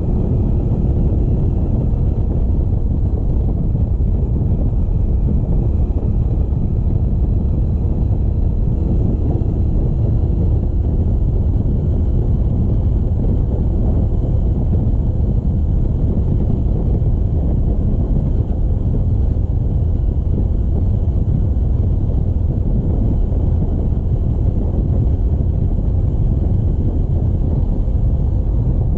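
Motorcycle on the move, heard as a steady low rumble of engine and wind noise on the microphone.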